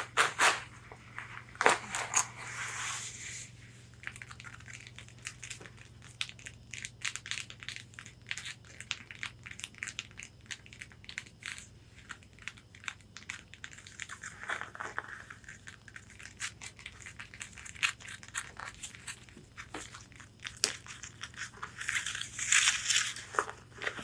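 Long fingernails tapping and scratching on a corset bodice: quick dry clicks throughout, with stretches of scratching on the fabric near the start, around the middle and near the end.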